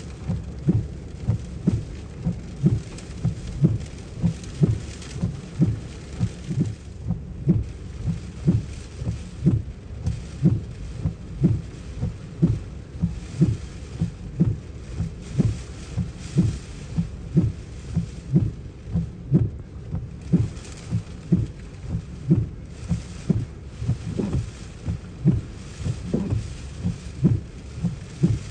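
Steady low thumps, about two a second and evenly paced, over a continuous hiss of wind-driven rain in a thunderstorm.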